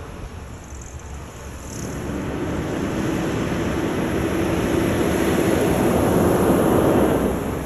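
Road and wind noise of a moving car, swelling over a few seconds with a faint steady hum, then easing slightly near the end.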